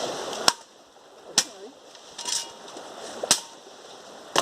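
Four sharp knocks, unevenly spaced, over a quiet outdoor background with a faint voice between them.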